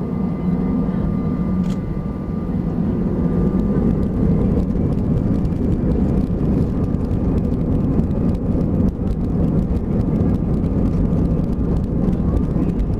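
Airbus A320 heard from inside the passenger cabin: a loud, steady rumble of engine and airframe noise with a few steady engine tones. It grows louder about four seconds in, then carries many small rattles and knocks.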